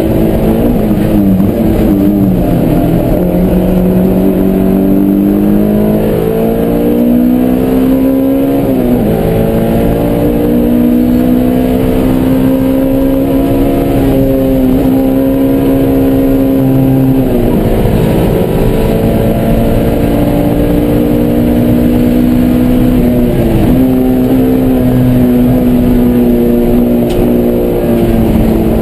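Honda S2000 engine at full throttle, heard from inside the stripped, caged cabin: its pitch climbs under acceleration and falls sharply at gear changes and braking several times, with long stretches of near-steady high revs in between.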